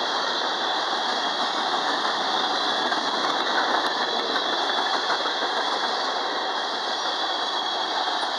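Freight train cars rolling past with a steady, continuous rumble of steel wheels on rail.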